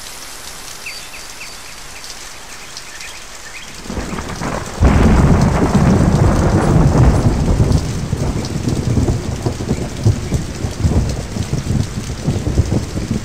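Steady rain hissing, then about four seconds in a thunderclap breaks and a loud roll of thunder keeps rumbling and crackling over the rain.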